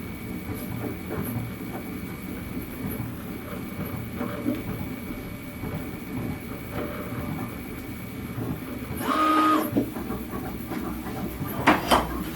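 3D printer running a print: its stepper motors whir and buzz through changing moves, with a faint steady high whine underneath. About nine seconds in, a louder pitched motor whine lasts under a second, and a few sharp clicks come near the end.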